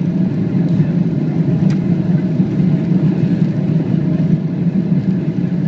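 Boeing 777 cabin noise: a steady low rumble from the running engines and the moving aircraft, with a faint steady hum above it.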